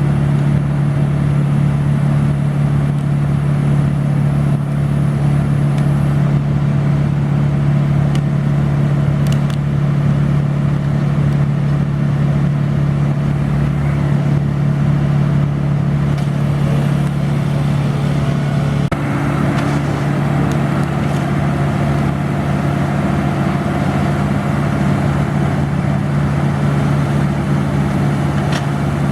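A large engine running steadily at a constant speed, with an even low pulse.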